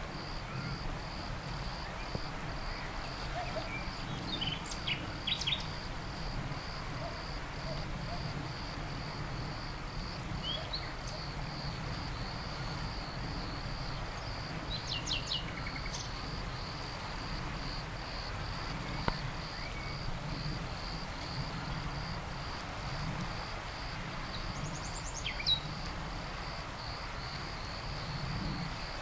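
Outdoor evening ambience: insects chirring in a steady, evenly pulsing high tone, with a bird chirping briefly a few times over a low background rumble.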